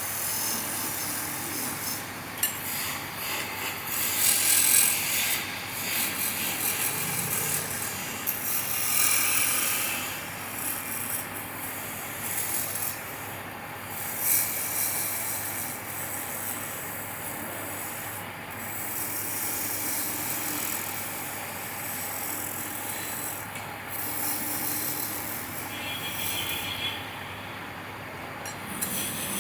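A turning tool cutting into wood spinning on a lathe: an uneven scraping hiss that swells and fades every few seconds as the tool is pressed in and eased off.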